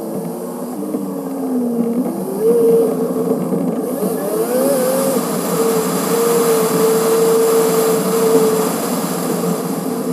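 Car engine and wind noise from a grill-mounted camera, sped up six-fold. The engine pitch climbs steeply about two seconds in, wavers, then holds a steady high whine, while a rushing hiss rises from about four seconds in as the car picks up speed.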